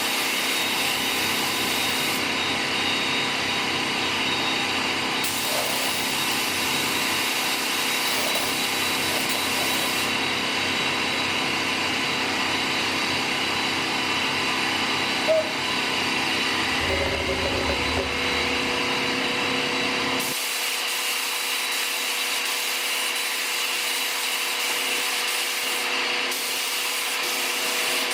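A power tool running steadily with a constant whine, while a high hiss cuts in and out several times.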